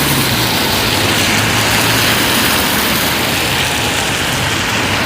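Steady road traffic noise: an even hiss of tyres with a low engine hum beneath it.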